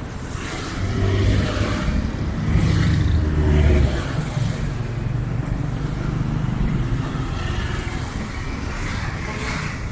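A motor vehicle running along a street, with a low engine rumble that swells from about one to four seconds in and then settles to steady road noise.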